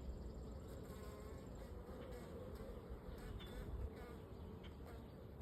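Honeybees buzzing around an open hive, a faint steady hum of many wings.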